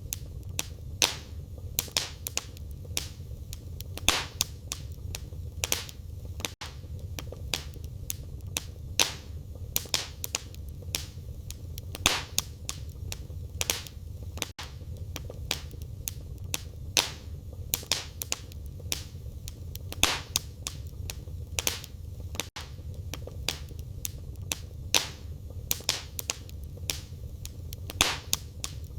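Wood fire in a fireplace crackling, with frequent sharp pops and snaps over a steady low rumble of the flames. The same run of pops comes round about every eight seconds, a looped recording.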